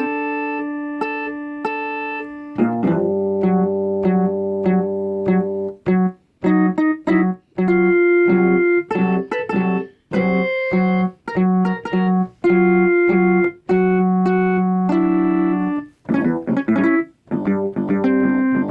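Electronic keyboard playing an instrumental tune: a held chord at first, then short, evenly repeated notes and chords in a steady rhythm, with brief silences between many of them.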